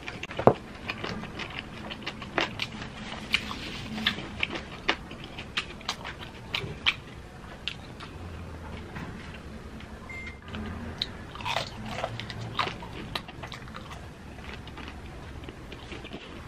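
A person chewing food, with many short wet mouth clicks and smacks, and a pause to sip a drink through a straw about halfway through.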